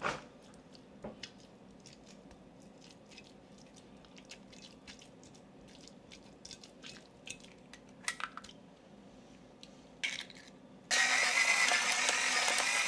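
Small clicks, taps and rustles of kitchen handling. Near the end a loud steady rushing noise starts abruptly.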